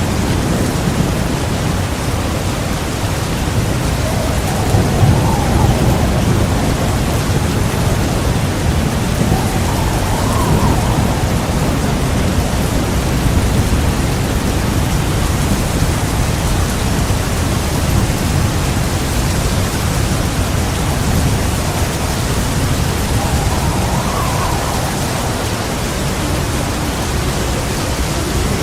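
Heavy rain pouring steadily with low rolling thunder rumbling under it, the rumble swelling about five seconds in.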